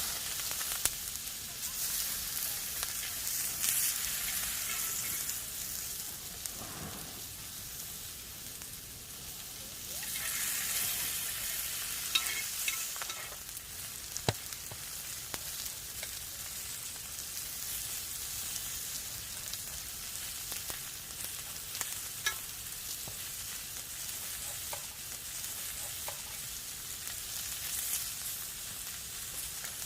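Food frying on a camping griddle: a steady sizzle with scattered sharp pops of spitting fat.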